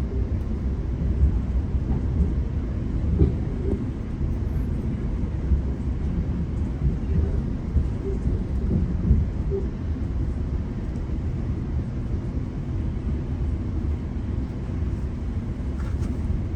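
Low, steady rumble of a GO Transit commuter train heard from inside the coach as it pulls into a station, with a few light knocks.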